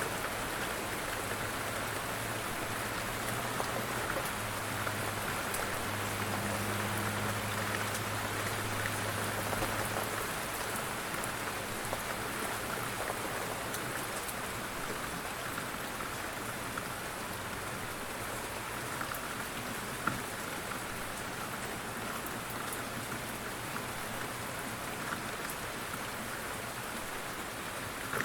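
Light rain falling steadily: an even hiss with scattered sharper drop taps, and one louder drip about twenty seconds in.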